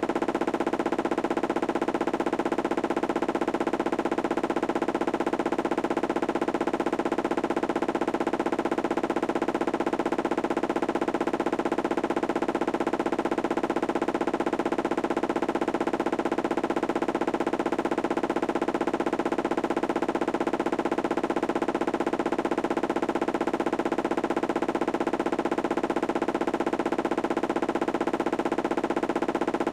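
Candy washing machine running with a steady motor hum and a rapid, even pulsing from the turning drum, typical of its spin cycle.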